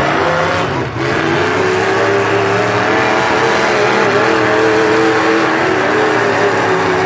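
Demolition derby cars' engines revving hard, one engine held at high revs with its pitch wavering and slowly climbing, after a brief drop about a second in.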